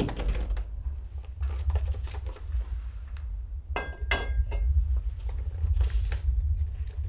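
A series of light knocks and handling sounds, with two ringing glassy clinks about four seconds in, over a steady low hum.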